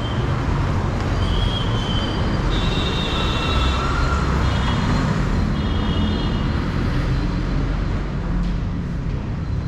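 Steady road traffic noise, with several short, high-pitched tones through the middle.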